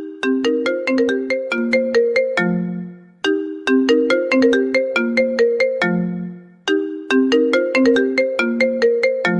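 iPhone ringtone playing: a quick, bright melody of struck notes that loops about every three and a half seconds. Each loop ends on a low held note that fades away before the next one starts.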